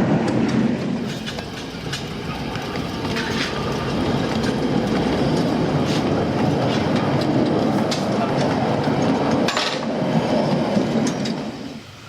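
Miniature railway train running on the track: a steady rumble of wheels on rail with clicks over the rail joints. It cuts off suddenly near the end.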